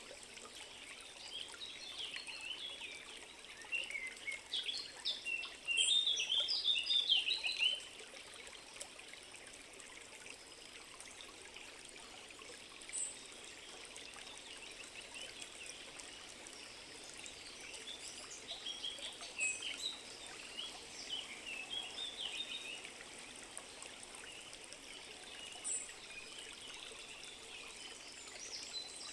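Forest ambience: a steady trickle of stream water under songbirds chirping and singing. The birdsong is busiest in a burst a few seconds in and picks up again past the middle.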